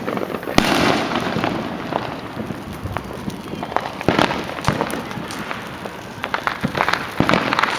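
Fireworks and firecrackers going off all around: rapid strings of sharp cracks like automatic gunfire, with a loud boom about half a second in and dense bursts of crackling near the middle and the end.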